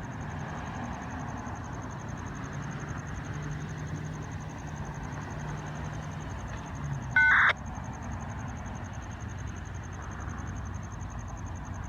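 Steel rails humming ahead of an approaching freight train, with a steady low drone beneath. About seven seconds in, a brief, loud high-pitched tone cuts in for a fraction of a second.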